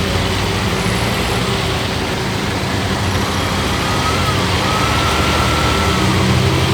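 Motor vehicle engines running in traffic on a flooded road, over a steady hiss of heavy rain and water.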